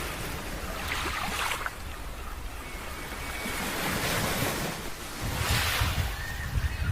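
Wind gusting over the microphone outdoors: a steady rushing noise with low rumbling buffets, swelling several times.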